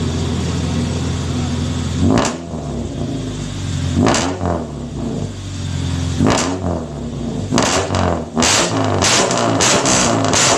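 Engine idling through a loud aftermarket racing exhaust, blipped up in three sharp revs about two seconds apart, then revved in a quick run of short blips near the end.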